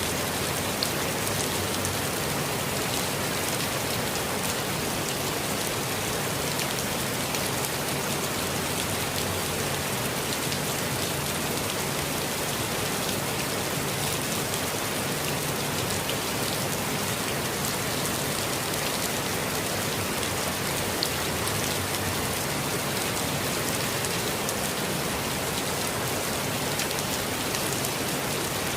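Steady rain falling on foliage and ground, a continuous even hiss with scattered single drop ticks, one a little louder about 21 seconds in.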